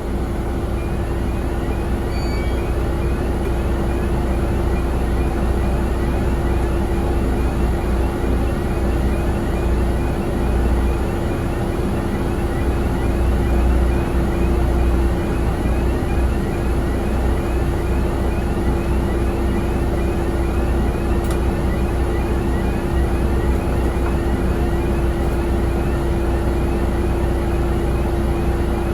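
Steady engine drone on an airport apron: a constant hum over a low rumble, with a faint rapid pulsing higher up, unchanging for the whole stretch.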